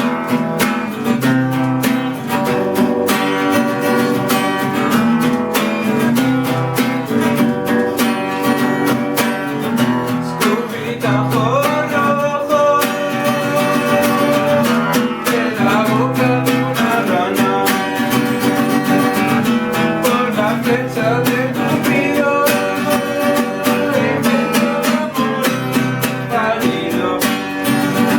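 Acoustic guitar strummed steadily, playing a song's chords in a regular rhythm.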